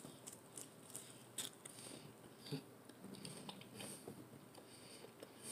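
Faint close-up bite into a toasted chicken quesadilla, then chewing the mouthful, with scattered small wet mouth clicks.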